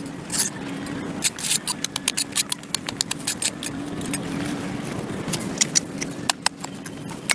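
A hand tool scraping and chopping at packed dirt and grass on a concrete sidewalk, in quick irregular strokes, over a steady low hum.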